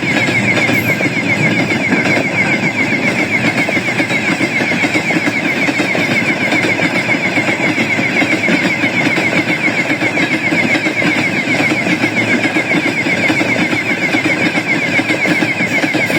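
Train passing close by: a steady, loud rumble of wheels on the rails, with a fast-repeating high whine throughout.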